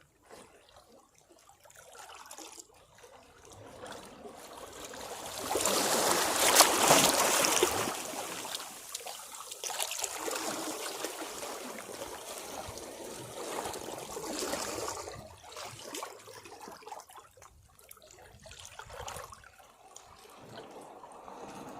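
Sea waves washing against rocks. One wave surges in about six seconds in and is loudest for about two seconds, then the water washes back off the rocks, quieter and uneven, with smaller surges.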